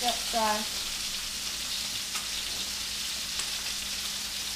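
Puffer fish pieces frying in oil in a stainless steel pan, a steady sizzle, with a couple of faint clicks. A brief voice sounds just after the start.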